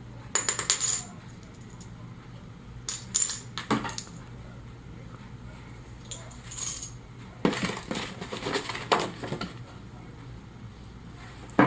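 Small plastic model-kit parts, the plastic wheel halves, clicking and clattering together as they are handled, in about five short bursts of sharp clicks.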